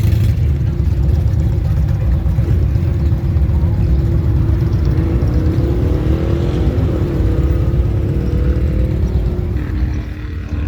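Motorcycle engines running with a steady low rumble. From about four seconds in, one engine's note rises and then falls away, as a bike revs or rides past.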